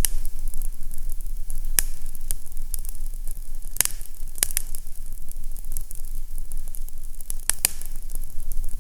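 Fireplace crackling: a steady hiss and low rumble of burning, broken by a handful of sharp pops scattered through it.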